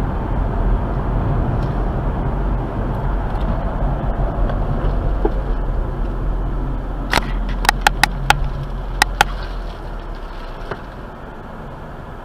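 Steady road and engine rumble of a car driving, with a quick cluster of about seven sharp clicks or knocks about seven to nine seconds in; the rumble eases off near the end.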